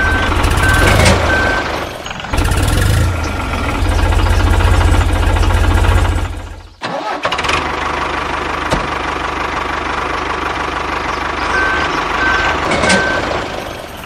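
Tractor engine sound running with a low, pulsing beat; it dips briefly about two seconds in, cuts off abruptly near seven seconds, and a steadier, somewhat quieter engine sound carries on.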